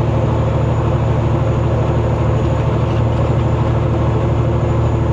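Semi truck's diesel engine running steadily on the road, a constant low drone with road noise, heard from inside the cab.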